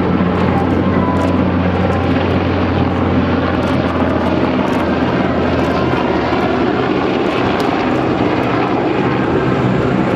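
UH-60J helicopter in flight, its rotor and twin turboshaft engines running loud and steady; the deep low hum eases off about halfway through.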